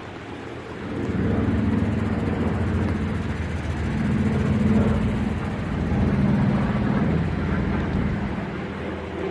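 Piston-engined WWII warbird flying past with a steady engine drone. The drone swells about a second in and stays loud, peaking near the middle.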